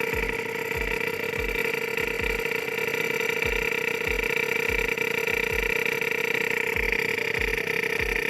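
Homemade mini air compressor, built from a refrigerator compressor and a washing machine motor, running: a steady hum with low thumps roughly every half second, unevenly spaced.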